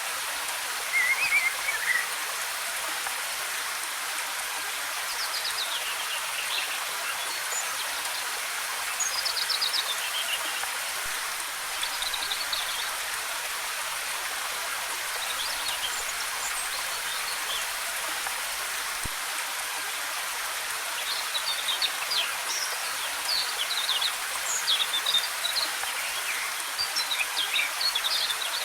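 Waterfall: a steady rush of falling water, with small songbirds chirping and trilling over it in short phrases, busiest near the end.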